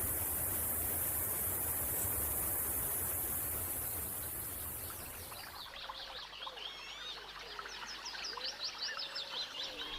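A steady noisy hiss that fades out over the first half, then many short, high chirping calls of young animals overlapping one another.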